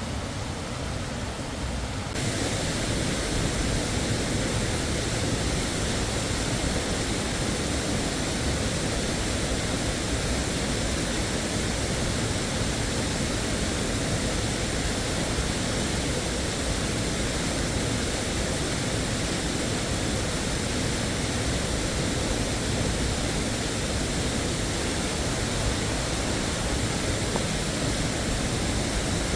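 Waterfall rushing: a steady, even roar of falling water that becomes louder and fuller about two seconds in.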